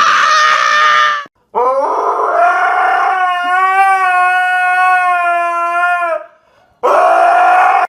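A dog howling in three long cries, the middle one held steady for nearly five seconds with a slight waver.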